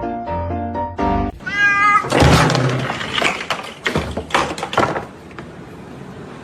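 Piano music plays, then a cat gives one wavering meow about a second and a half in. About three seconds of loud, noisy, crackling sound follow, then the level drops.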